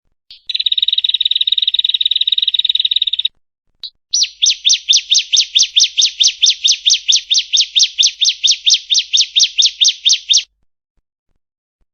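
Female ciblek (bar-winged prinia) singing: a fast trill for about three seconds, then after a short break a steady series of sharp repeated notes, about five a second, for some six seconds before it stops.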